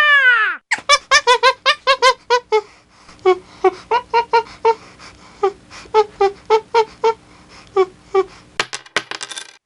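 Cartoon-style sound effect: a long string of short, quick squeaky pitched blips, several a second and jumping in pitch, over a faint steady hum. It opens with the tail of a falling tone and ends in a fast run of sharp clicks.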